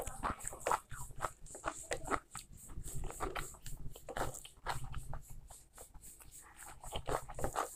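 Close-up eating sounds: a person chewing a handful of rice and beef curry, with irregular mouth clicks several times a second. Near the end there is a bite into a piece of raw red onion.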